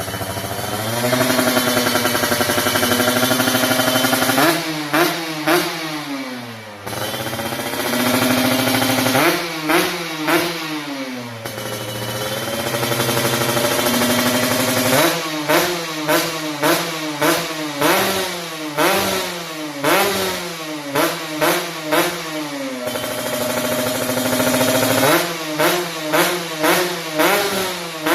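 Kawasaki Ninja 150 RR's two-stroke single-cylinder engine, standard porting, through an ABRT20 racing exhaust, revving freely with no load. It holds steady revs for a few seconds at a time, and in between gets quick throttle blips that rise and fall sharply, about one a second, in runs near the middle and near the end.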